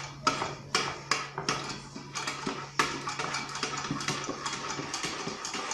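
A rapid series of sharp clicks and clattering knocks: a few loud separate knocks at first, then a quicker, denser run of smaller clicks from about three seconds in.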